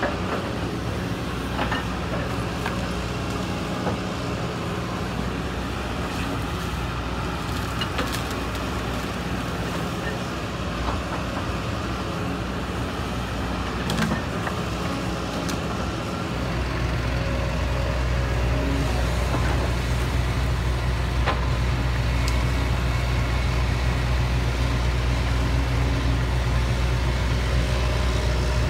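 Heavy diesel engine running steadily with a low hum, stepping up to a louder, heavier note about halfway through and holding there.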